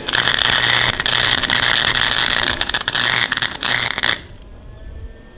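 Flux-core wire welder's arc crackling in a few short runs with brief breaks, stopping about four seconds in. The test bead is running too cold and not melting into the steel, a sign the wire speed and heat need turning up.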